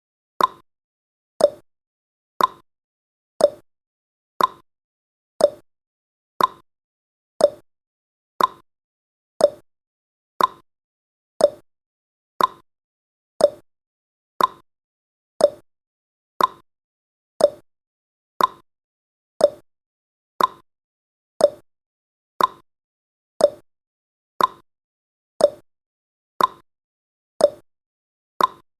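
Countdown timer's clock-tick sound effect: one short tick every second, alternating between a higher and a lower tick like a clock's tick-tock.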